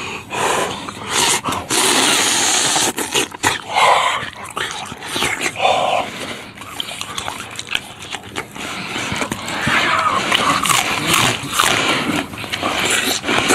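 Loud, close-miked chewing and gnawing as stewed donkey rib meat is eaten off the bone, with wet mouth and lip noises. Near the end comes a bite into a raw green onion.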